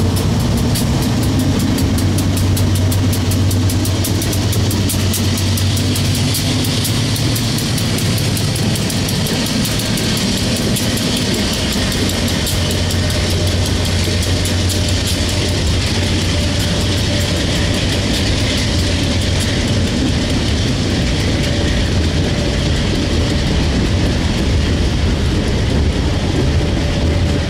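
A freight train passing close by: the diesel locomotives' engines hum deeply as they go by, then the freight cars' wheels keep up a steady rumble and clatter on the rails. The sound cuts off suddenly at the end.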